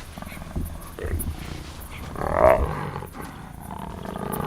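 Jaguar roaring: a hoarse, pulsed call that is loudest about two seconds in. It is a young female jaguar's mating call.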